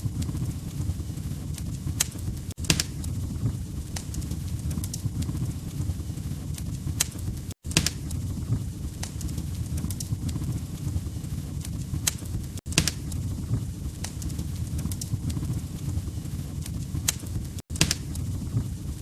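Wood fire in a fireplace crackling: a steady low rumble from the burning logs with sharp, irregular pops and snaps. The sound cuts out for an instant about every five seconds.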